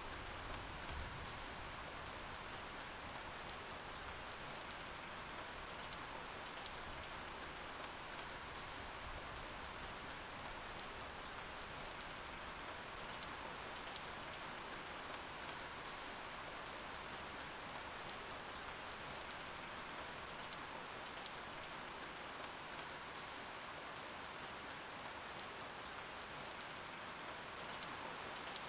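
Steady rain falling: an even hiss dotted with many small, sharp drop hits.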